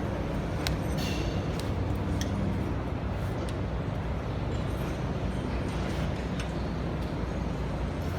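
A heavy machine's engine running steadily with a low rumble, with a few light metallic clinks scattered through it.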